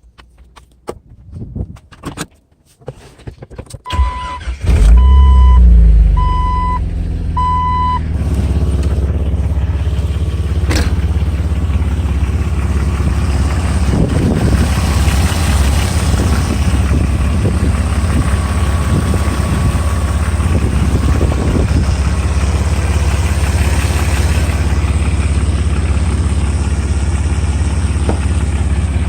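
A Jeep Wrangler's engine is cranked and starts about four seconds in, with four short electronic chime beeps from the dash as it starts, then idles steadily. A few clicks come before the start.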